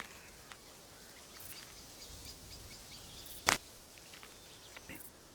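Quiet outdoor ambience with a few faint high chirps, and one brief sharp thump about three and a half seconds in.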